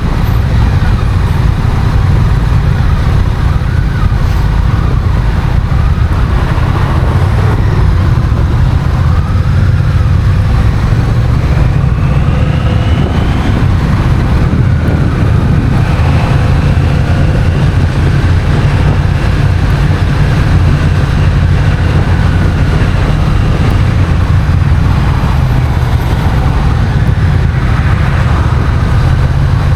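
Honda CMX1100 Rebel's 1084 cc parallel-twin engine running on the move, its note rising and falling in pitch with speed, under a heavy steady rumble of wind on the onboard camera's microphone.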